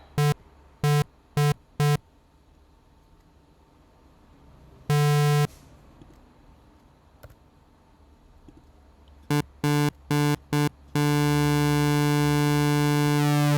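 Sylenth1 software synthesizer playing a pulse-width-modulated square-wave patch on one low note: a few short stabs, a longer note, another quick run of stabs, then a held note near the end whose upper harmonics begin to shift and sweep as the pulse width moves.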